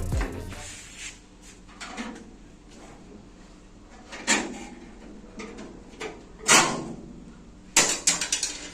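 Scattered knocks and clatters over a quiet background: single ones about four and six and a half seconds in, and a quick run of them near the end.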